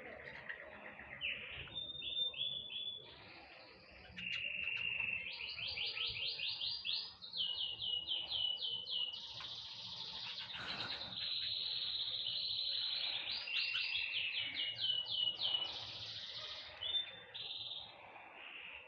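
Small songbirds singing continuously: fast runs of repeated high chirps, several to the second, alternating with longer held notes.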